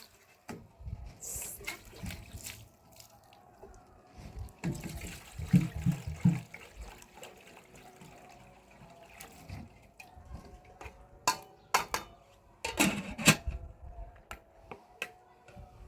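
Water splashing and pouring in short spells, with scattered knocks; the loudest bursts come about six seconds in and again around thirteen seconds.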